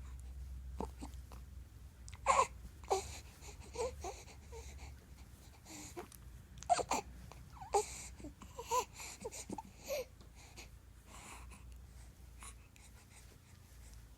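A baby's voice making a string of short, high-pitched squeals and fussy cry-like sounds, spaced a second or so apart, between about two and ten seconds in.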